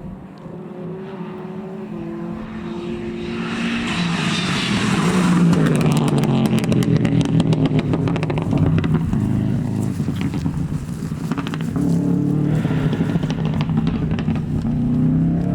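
Four-wheel-drive rally car at full attack on a stage: the engine note climbs through the gears as it approaches, reaching its loudest about five seconds in with a rapid run of sharp crackles, then stays loud and keeps pulling through further gear changes.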